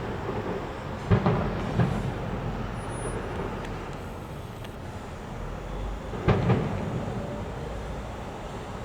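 Fireworks exploding: sharp bangs in two pairs, one about a second in and one about six seconds in, over a continuous low rumble.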